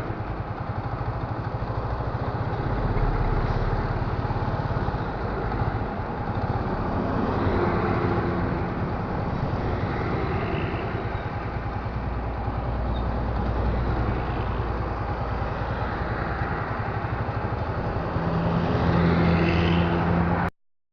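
Road traffic: engines and tyres of passing container trucks and other vehicles, swelling and fading as they go by, with a louder engine hum near the end before the sound cuts off abruptly.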